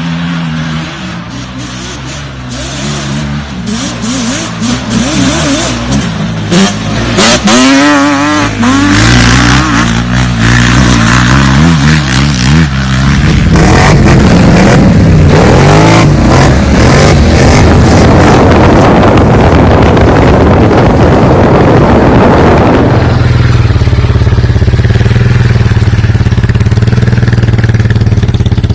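Off-road vehicle engines revving and running loudly, their pitch rising and falling with the throttle, with some clatter. The sound changes abruptly about halfway through and again later, settling into a steadier, lower engine note near the end.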